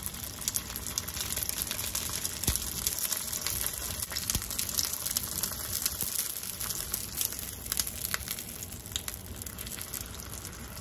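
Collard-green-wrapped rice rolls frying in sesame oil in a hot skillet: a steady sizzle with scattered crackles and pops.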